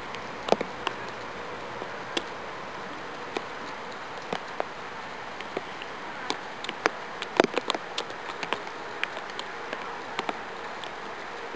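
Falling snow pattering on surfaces: a steady hiss with many irregular small ticks and taps scattered through it.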